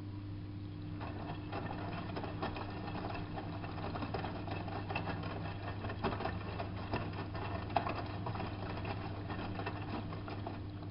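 Drum of a hanseatic HWM814A3D front-loading washing machine turning mid-cycle, the laundry tumbling with a soft rustle and many small clicks. The turn starts about a second in and stops near the end, over a steady low hum.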